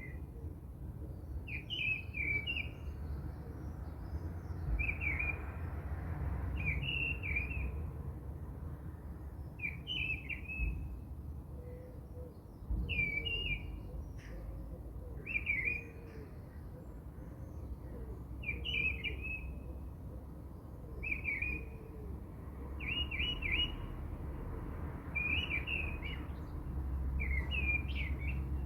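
A small bird chirping a short warbled phrase again and again, about every two to three seconds, over a steady low hum.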